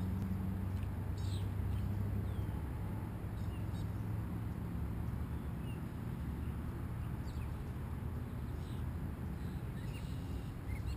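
Small birds chirping faintly now and then over a steady low rumble.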